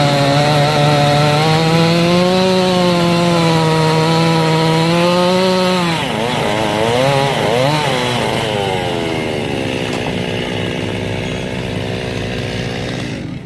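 Belt-driven circular sawmill blade cutting through a log, with a steady pitched hum that drops and wavers about halfway through as the blade takes the load, then climbs back and settles at a lower pitch.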